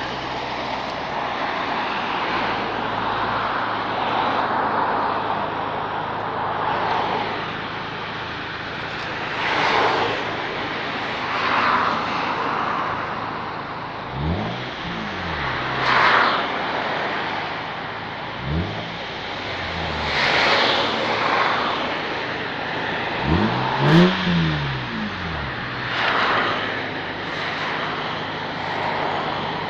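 Toyota Mark II GX100's 1G-FE BEAMS inline-six running through a dual exhaust, idling steadily and then given several quick blips of the throttle from about halfway through, the pitch rising and falling each time.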